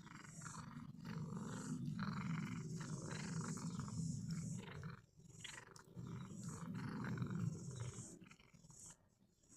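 A cat making a low, rumbling, growl-like noise with clicking over it. It breaks off briefly about five seconds in and stops near the end.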